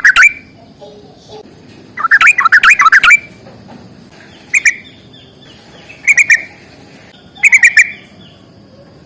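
Yellow-vented bulbul (trucukan) singing in bursts of rapid, chattering notes: a long phrase about two seconds in, then shorter ones about halfway through and near the end.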